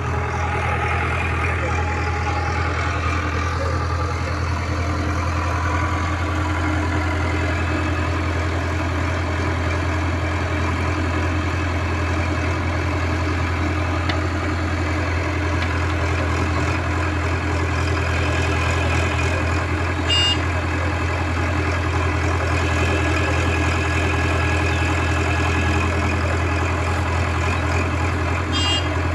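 Heavy diesel engine idling at a steady speed with a deep, even hum, and two faint clicks in the second half.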